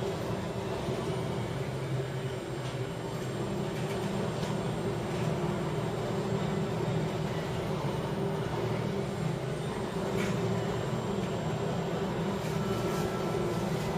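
Steady low drone of a ship's engine and hull running through heavy seas, with a few faint ticks.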